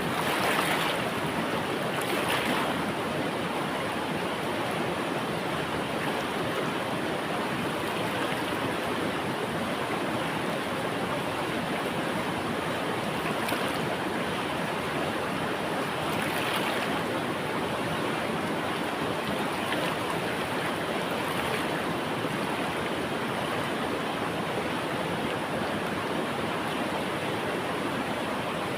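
River water flowing in a steady rush, with a few brief louder surges near the start and again about halfway through.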